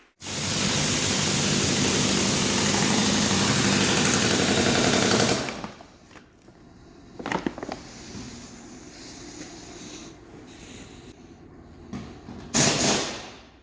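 Rapid mechanical hammering, in the manner of a pneumatic impact wrench, for about five seconds, then stops. Quieter clanks and clatter follow, with another short loud burst near the end.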